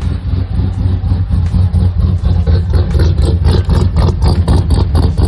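V8 engine in a custom Toyota Land Cruiser build running loud, with a deep pulsing exhaust beat that becomes more distinct a couple of seconds in.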